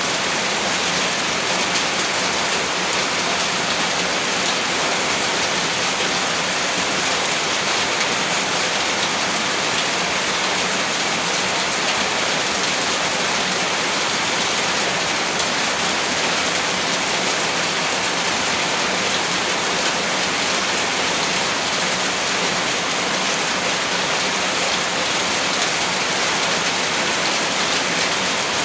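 Heavy rain falling steadily, a dense even hiss of drops on a surface with fine pattering throughout.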